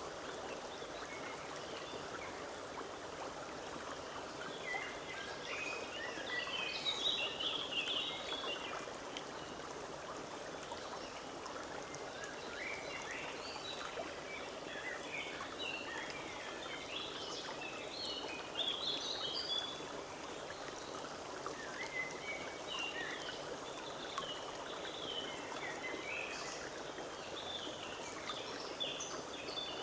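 Forest stream running steadily over stones, with small birds singing in short chirping bursts over it, on and off throughout.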